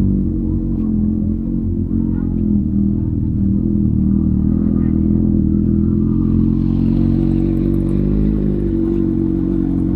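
Motorcycle engine running at a steady speed, its pitch rising slightly near the end.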